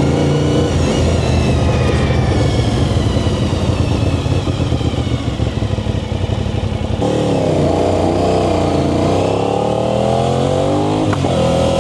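Aprilia RS660 parallel-twin engine running through an Arrow full exhaust with the dB killer fitted, heard while riding. The engine note eases off gradually, dips about seven seconds in, then climbs steadily for about three seconds, with a short sharp crack about eleven seconds in.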